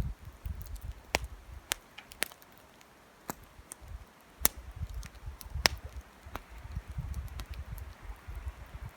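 Campfire crackling, with sharp pops at irregular intervals over a low, uneven rumble.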